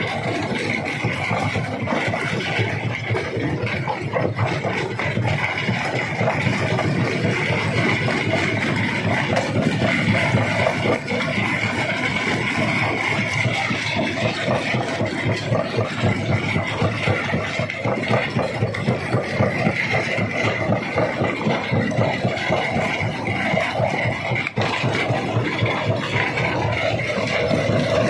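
Large rock crusher running, a steady, dense mechanical din with rattling that pulses quickly in its second half.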